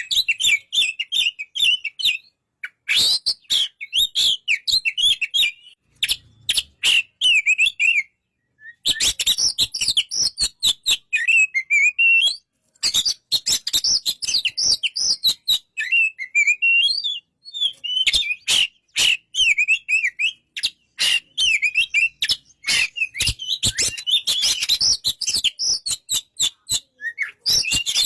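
Oriental magpie-robin (kacer) singing in long runs of fast, varied chirps and whistles mixed with sharp clicks, broken by short pauses, the longest about a third of the way in.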